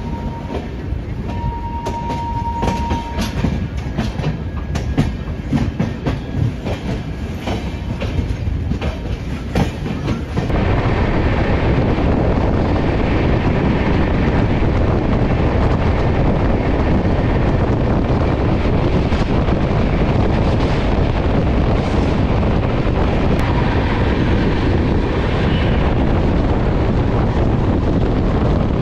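Indian express passenger train heard from an open coach door: wheels clicking over rail joints and points as it rolls slowly out, with a brief steady tone about two seconds in. From about ten seconds a louder, steady rush of wheels and wind as the train runs at speed.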